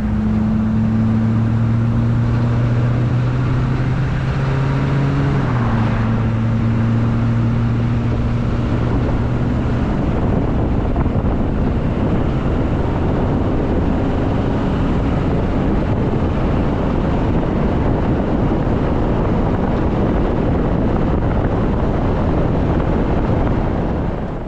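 Truck driving on the road with a trailer in tow: steady engine hum and heavy road noise. The engine note drops a step about five seconds in, then fades into the road noise.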